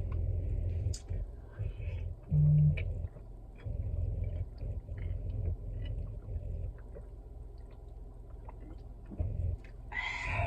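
Eating sounds close to the microphone: chewing food, with small mouth clicks and low thumps, and a brief low hum about two and a half seconds in.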